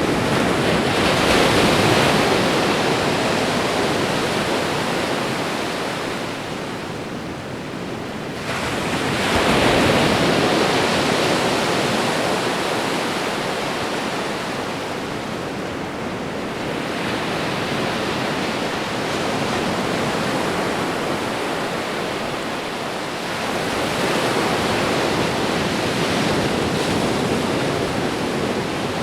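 Ocean waves breaking and washing on a shore, a steady rushing of surf that swells and fades, with surges about a second in, near ten seconds and again in the last few seconds.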